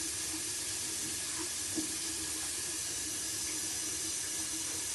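Bathroom faucet running steadily into a sink basin, an even hiss of water.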